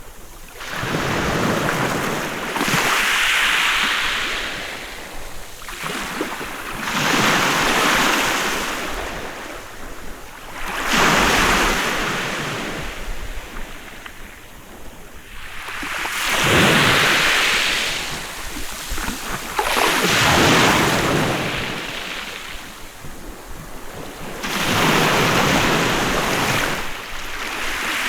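Sea waves breaking on a beach, one after another, each swelling into a hissing rush and draining away, about seven in under half a minute.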